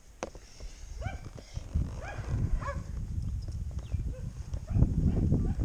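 A dog barking a few short times, over low rumbling from gusts of wind on the microphone that grows louder near the end.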